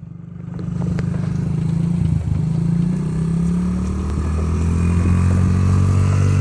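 Small dirt bike engine running steadily, building up over the first second and then holding an even note.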